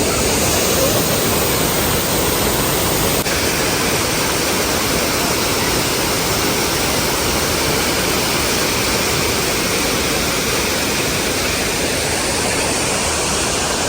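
Waterfall rushing and splashing close by, a loud, steady roar of falling water.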